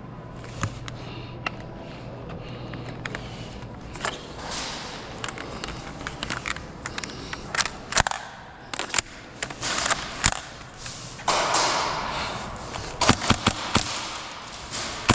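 Airsoft guns firing: scattered sharp snaps, with a quick run of shots close together about thirteen seconds in.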